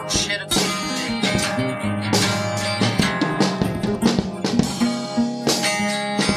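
Band music without vocals: guitar playing over a drum kit beat.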